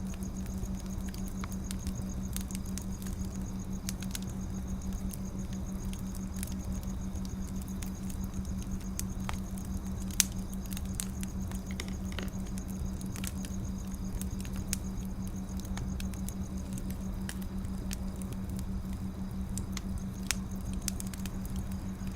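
Wood fire crackling: scattered small snaps and pops, with one louder pop about ten seconds in, over a steady low hum.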